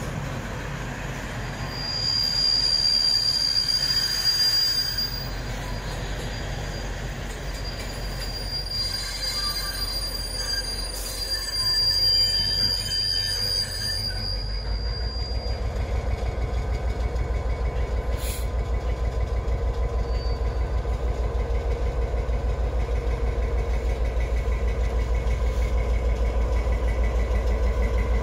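Empty timber wagons rolling past with their wheels squealing in high, steady tones. About halfway through, a T44 diesel-electric shunting locomotive comes close, its EMD two-stroke diesel engine running with a loud, even, fast throb.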